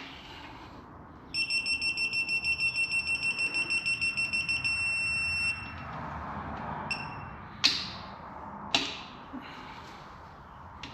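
Digital torque-angle wrench beeping rapidly as the bolt is turned, then holding a steady tone for under a second as the set angle is reached. A short beep and two sharp clicks follow.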